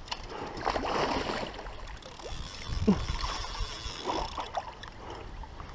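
Water splashing and sloshing around a kayak, loudest about a second in.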